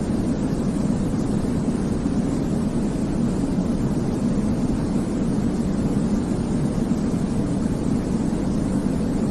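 Steady white-noise sleep sound for babies: an even, unbroken hiss weighted toward the low end, so it sounds deep and rumbly rather than bright. It holds the same level throughout.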